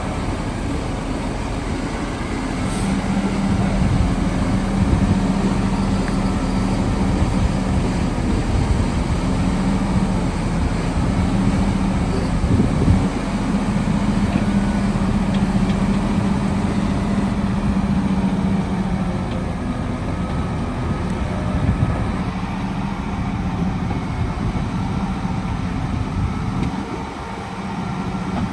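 Heavy diesel engine of earthmoving equipment running steadily, with a low, even engine note. It gets louder about three seconds in and dips briefly near the end.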